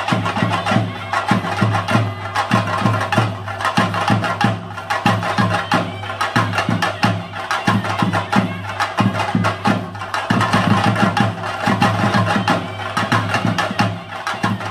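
Chenda drums played in a fast, dense, unbroken rhythm of many strokes a second, as the percussion accompaniment to a theyyam performance.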